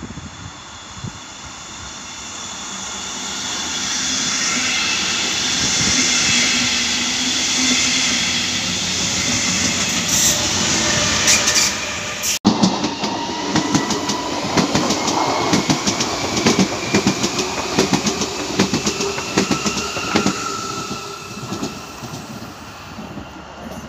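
A DB double-deck regional train passes through, its rolling noise and hiss building to a peak and then stopping suddenly at a cut. Then an S-Bahn electric multiple unit runs past with a rapid clatter of wheels over rail joints and a faint, slightly rising whine from its electric traction, fading near the end.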